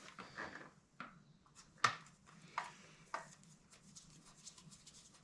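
A few separate light clicks and taps of a hand tool on the screw and the plastic airbox as a Torx screw is undone.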